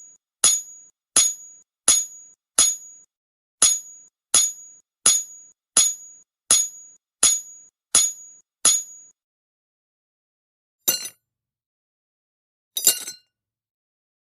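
A series of sharp metallic clinks, each a single strike with a short high ring, evenly spaced at about one every 0.7 seconds. They stop about nine seconds in, and two rougher clattering hits follow near the end.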